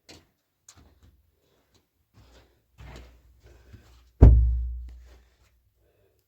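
A few light knocks and clatters, then a single heavy thump about four seconds in, with a deep boom that fades over about a second.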